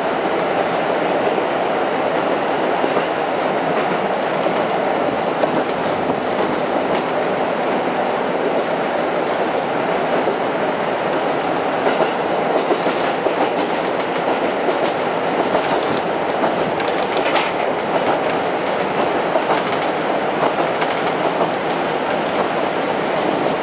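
Diesel railcar running along the line, heard from inside the passenger cabin: a steady rumble of wheels and running gear with faint rail-joint clicks. A brief sharp high noise comes about two-thirds of the way in.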